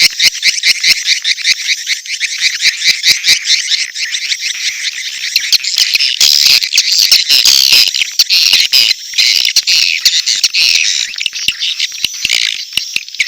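Swiftlet lure-call recording: mating calls mixed with chicks' calls, a rapid run of high, rattling chirps at about four to five a second. The chirps grow denser into near-continuous chatter in the middle, then spread out again near the end.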